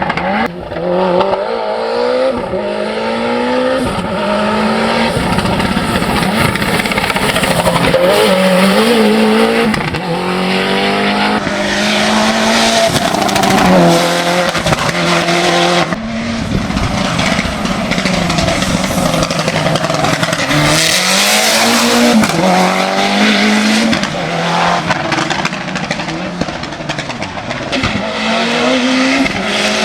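Mitsubishi Lancer Evo VIII hill-climb prototype's turbocharged four-cylinder engine pulling hard, its pitch repeatedly rising under acceleration and dropping sharply at each gear change. The sound changes abruptly twice, about a third and about half of the way through.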